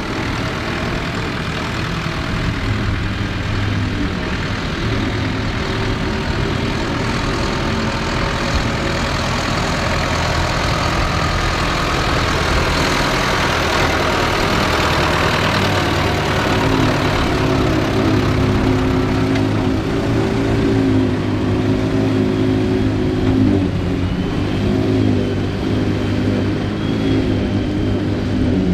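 Ford 8630 tractor's diesel engine working under load, driving a Mengele SH40N forage harvester, with the harvester's whir over it. The engine note shifts about two-thirds of the way through.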